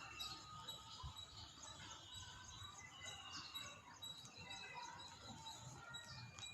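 Faint birdsong: several birds chirping and calling in short whistled notes.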